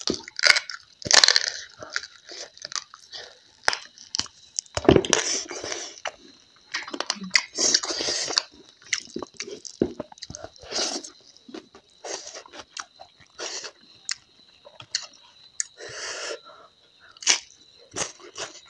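Close-miked chewing and crunching of a mouthful of rice and crab chutney eaten by hand, with many wet clicks and smacks and a few longer breathy sounds between bites.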